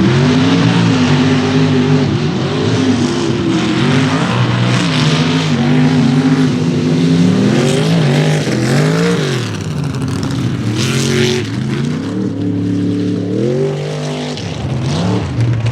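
Mega mud truck engine revving hard, its pitch climbing and dropping again and again as the throttle is worked, with a sharp climb and fall about halfway through and another near the end.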